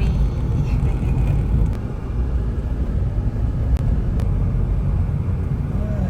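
Steady low rumble of a road vehicle travelling.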